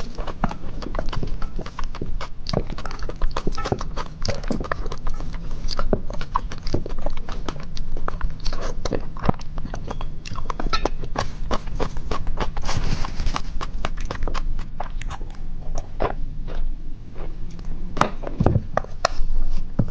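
Close-miked eating sounds of a person chewing and slurping noodles: a dense, irregular run of quick mouth clicks and smacks.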